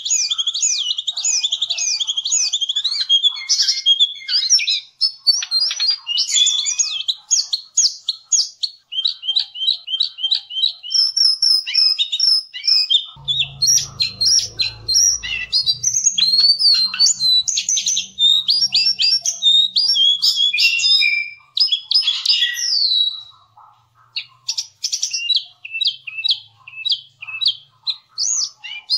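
A cingcoang (jongkangan) singing a long, fast, varied song of high chirps, trills and rapid repeated notes, with a brief lull a little over three-quarters of the way through.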